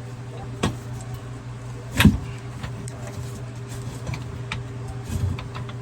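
An engine idling steadily, with a few sharp knocks and clinks of wrench work on the metal water-meter fittings; the loudest knock comes about two seconds in.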